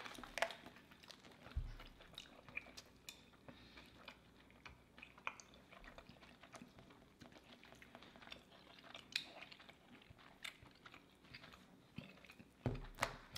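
Faint, close-miked eating sounds: scattered soft mouth clicks and crunches of chewing and biting into a brisket sandwich, with one dull low thump about a second and a half in.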